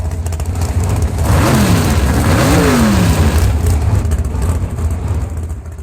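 Car engine running with a loud, deep rumble, revved up and back down a couple of times in the first half before settling.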